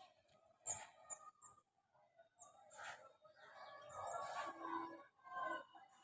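Faint short bird chirps, several in the first half, with a louder indistinct sound about four seconds in.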